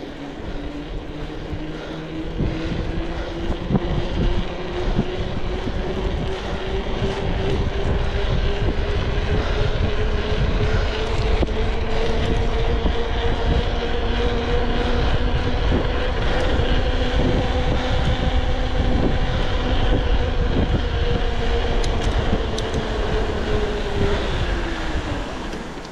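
A vehicle engine labouring under load, its pitch climbing slowly for about twenty seconds and then dropping away near the end. Under it is a heavy rumbling noise with scattered knocks.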